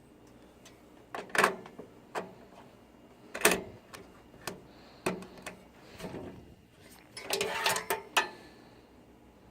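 Computer hardware being handled: a series of sharp clicks and knocks, the loudest two about a second and a half and three and a half seconds in, then a short burst of rattling clatter near the end.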